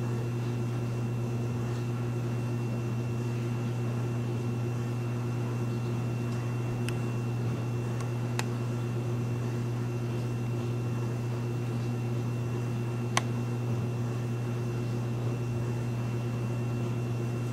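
A vehicle engine running steadily with a low, even hum that does not change in speed, and a few faint sharp clicks.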